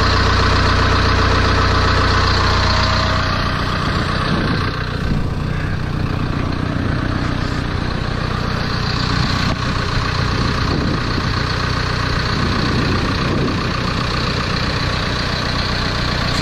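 John Deere 1010E forwarder's diesel engine idling just after a cold start that followed a 60-minute block preheat, having fired right up. It runs steadily, with a strong low drone that eases about three and a half seconds in.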